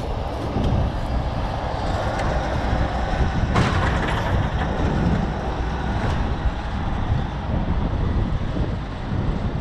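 Heavy truck engine running steadily, with a single sharp knock about three and a half seconds in.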